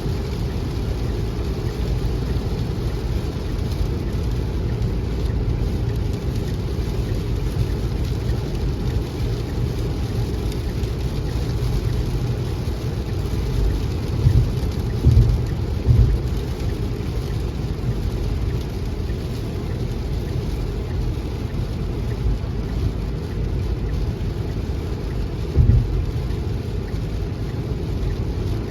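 Heavy rain falling steadily, with a few short low thumps about halfway through and again near the end.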